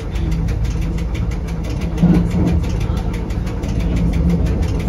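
Electric Rigi rack-railway train running, heard from inside the cab: a steady low rumble with a fast, even ticking of about six a second.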